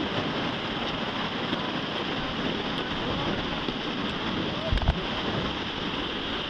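Whitewater of river rapids rushing steadily, with voices calling faintly over it and a low thump just before five seconds in.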